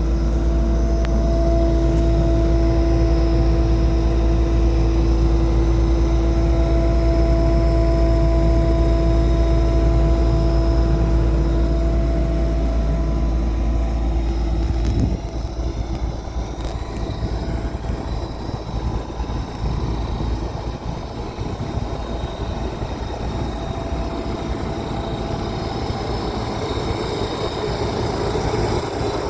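Takeuchi TL140 skid steer's diesel engine running steadily with a deep hum. About halfway through the sound changes suddenly, the deep hum dropping away and a rougher, more uneven machine sound carrying on.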